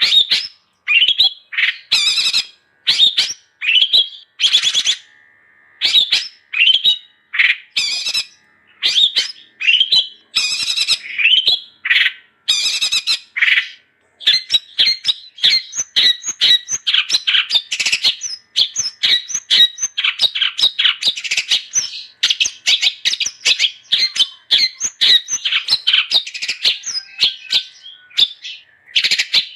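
Long-tailed shrike (cendet) singing in full voice: chirping phrases mixed with harsh squawks, coming as separate bursts at first, then about halfway through running together into a fast unbroken string of short notes.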